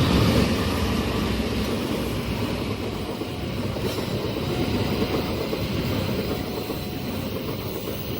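A train passing at speed, a steady rumble of its wheels on the rails.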